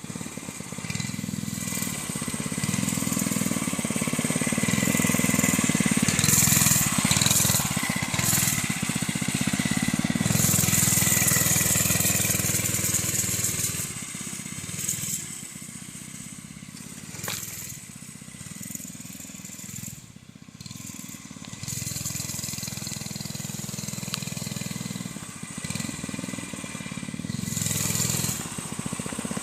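Small mini bike engine running as it is ridden, loud for the first dozen seconds, fading for several seconds in the middle, and coming back louder near the end.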